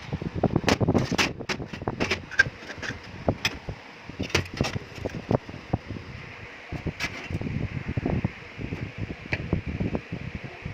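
Workshop handling noises: irregular knocks, taps and clicks, some with a dull thud, over a steady background hiss.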